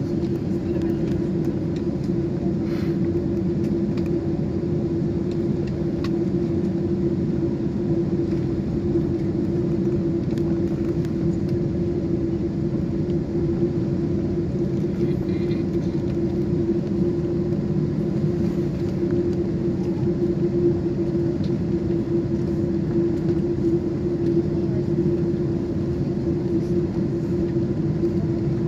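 Boeing 747 cabin noise heard from inside the cabin: a steady low rumble with a constant hum, holding an even level throughout.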